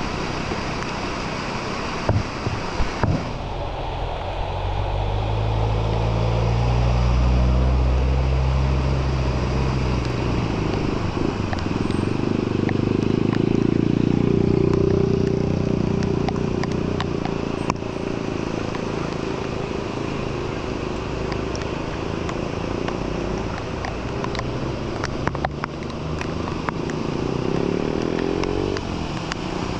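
Motor vehicles passing one after another over a steady hiss. One engine swells and fades in the first third; a second drones on through most of the rest and cuts off near the end.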